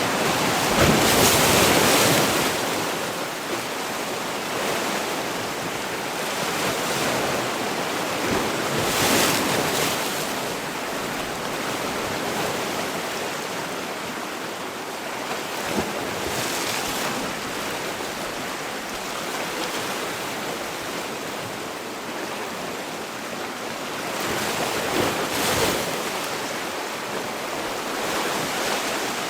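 Sea waves breaking and washing on the shore: a continuous surf wash with louder breakers swelling about a second in, around nine seconds, around sixteen seconds and again around twenty-five seconds. Some wind noise is mixed in.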